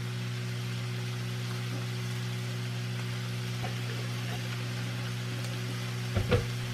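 Broccoli sizzling in a skillet, a steady even hiss over a constant low hum. A couple of light knocks come near the end.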